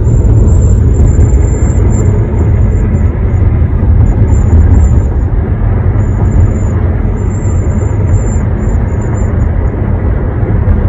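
Piercing high whistle from a 2021 Honda HR-V while driving, over loud low road and engine rumble in the cabin. The whistle holds steady for about two seconds, then drops out and returns in short broken pieces. The dealer calls this whistle a normal characteristic of the model, but the owner takes it for a design flaw.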